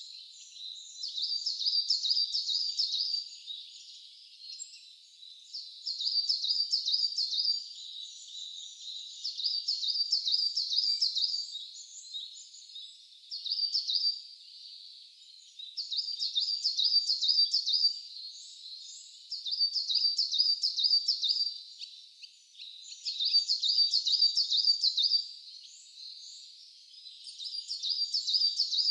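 A songbird sings the same short phrase over and over, each a quick run of high notes lasting a second or two, repeated every three to four seconds. Fainter calls from other birds fill the gaps.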